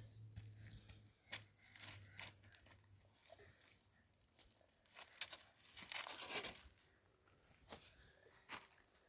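Faint crackling and rustling: scattered sharp crackles and short rustles, with a low hum that stops about three seconds in.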